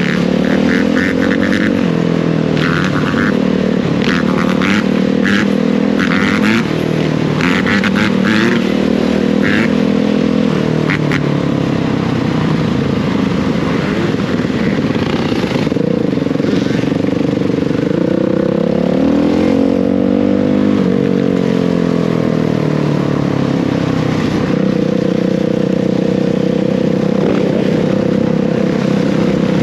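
Dirt bike engine running and revving up and down, its pitch rising and falling several times. A series of short high chirps sounds over it during the first ten seconds.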